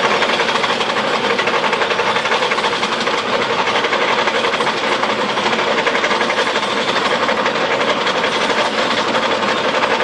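Heavy machinery working: a loud, steady mechanical clatter with a hiss, unchanging throughout.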